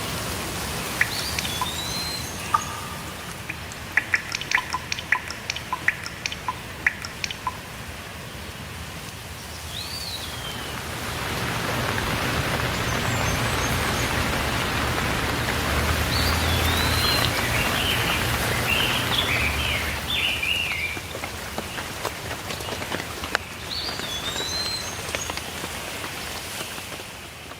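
Steady rain with drops tapping sharply on a surface, and small birds calling now and then: a short arching whistle repeats several times, with a quick twittering in the middle. The rain grows louder about a third of the way in and eases off again near the end.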